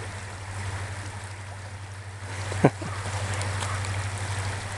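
Stream water running steadily, with a single short thump a little past the middle.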